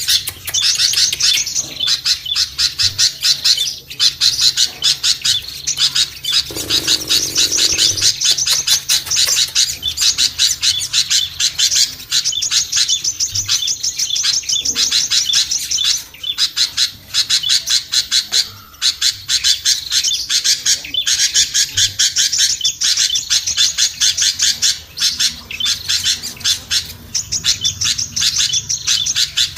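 Bird-lure recording of small songbirds chattering noisily together: a dense, unbroken stream of rapid high chirps and squeaks.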